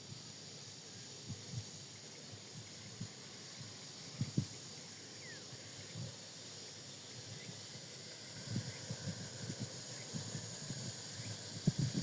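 Outdoor ambience: a steady high hiss with scattered low thumps and bumps that come more often near the end.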